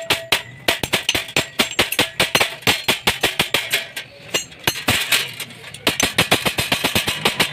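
Hammer striking sheet metal in a fast, steady run of blows, about five or six a second, with a couple of brief pauses partway through.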